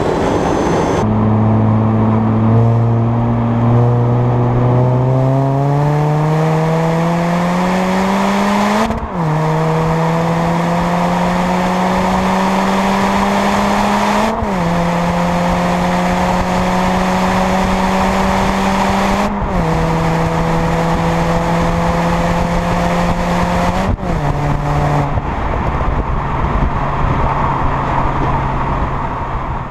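R53 Mini Cooper S's supercharged 1.6-litre four-cylinder engine and stock exhaust accelerating through the gears. The note climbs steadily, drops sharply at each of four upshifts, then holds level near the end. Heavy wind noise on the microphone fills the first second.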